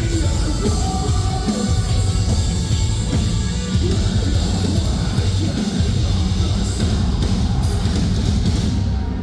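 A metalcore band playing loud live, with distorted guitars, bass and a pounding drum kit, and some vocals. The song breaks off near the end.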